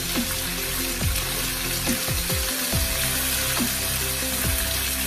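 Chicken pieces sizzling in hot oil in a frying pan: a steady crackling hiss. Background music plays with held notes and repeated falling sweeps in the low range.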